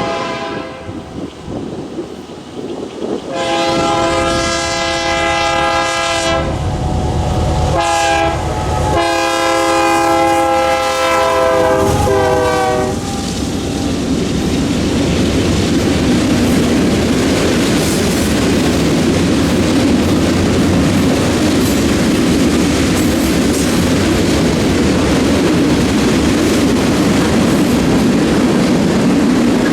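Locomotive air horn sounding a chord of several notes in a sequence of blasts, the last and longest ending about 13 seconds in, as a grade-crossing warning. Then the train passes close by in a steady loud rumble, with wheels clattering over the rails.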